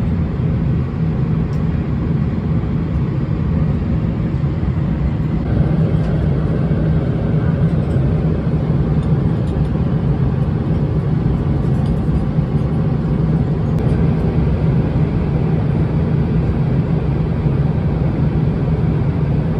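Steady, loud low rumble of a Boeing 777-300ER's cabin noise, the engines and airflow heard from inside the passenger cabin.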